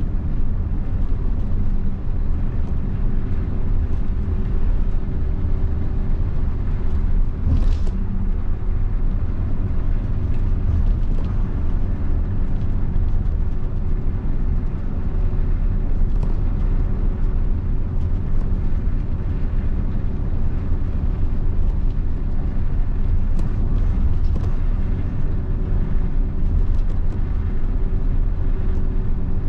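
Mitsubishi Fuso bus diesel engine running under way, a steady low drone mixed with road noise.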